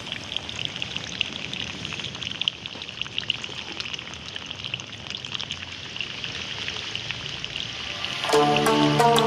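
Water pouring and splashing steadily from a small DIY electric water pump, a crackly hiss. Music comes in near the end.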